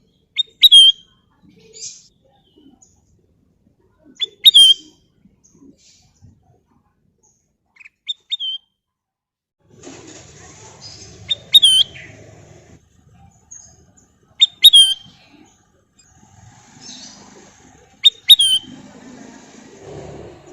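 A kutilang emas bulbul repeating a short, sharp call about every four seconds, six times in all. From about halfway there is a faint low rustle underneath.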